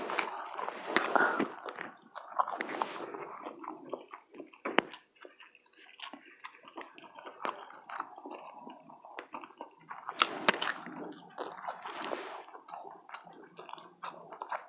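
Close-miked chewing and mouth sounds of a person eating, with sharp smacks and clicks scattered throughout.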